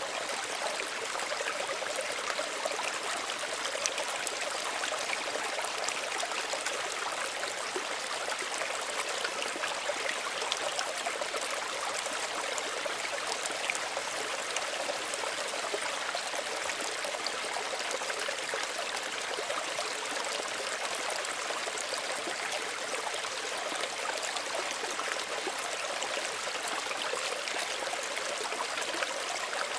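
Small stream running steadily over stones, a constant gentle babble with many small trickles and splashes.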